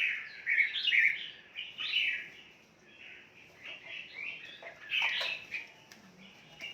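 Caged red-whiskered bulbuls chirping and singing, many short overlapping phrases, loudest in the first two seconds and again about five seconds in.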